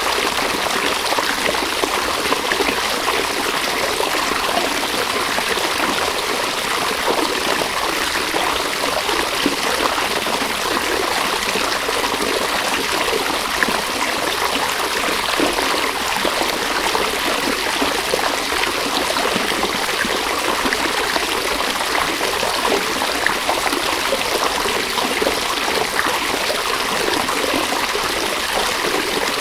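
A river's water flowing and splashing over stones in a steady rushing babble, with many small quick splashes.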